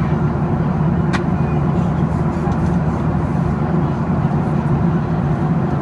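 Steady, loud cabin noise inside a Boeing 737-800 airliner: engine and airflow rumble with no change in pitch, broken by a sharp click at the start and another about a second in.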